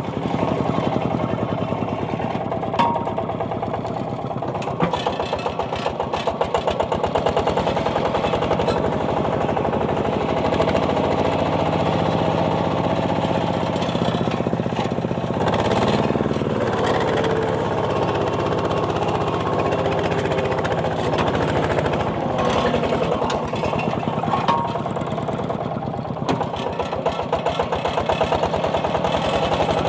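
Mini tractor's single-cylinder diesel engine running under way, a rapid steady chugging, with its engine speed shifting around the middle.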